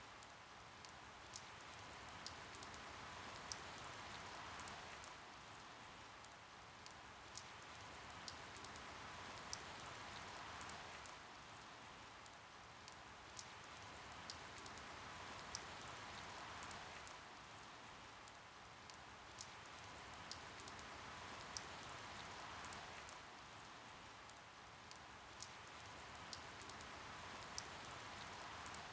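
Steady, faint rain with a soft hiss and many single drops ticking sharply. The hiss swells and eases about every six seconds.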